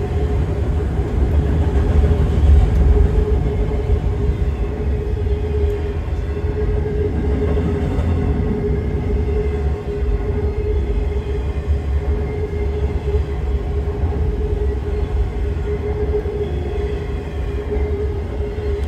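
Freight train of autorack cars rolling past close by: a steady, loud rumble of wheels on rail, with one steady tone held above it throughout.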